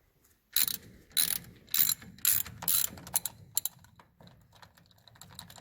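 A hand ratchet being worked in five loud rasping strokes about half a second apart, followed by lighter, quicker clicks.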